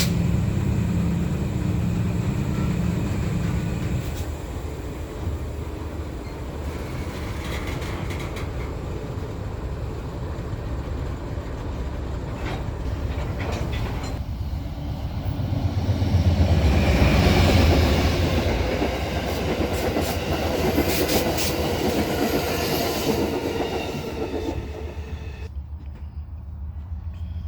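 A train rolling past with a steady rumble that swells about two-thirds of the way through. The higher sounds drop away suddenly near the end.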